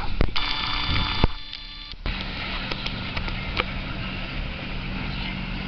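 Motorboat engine running steadily under wind and water noise. A brief steady tone with several pitches sounds near the start, and the engine's low hum settles in about two seconds in.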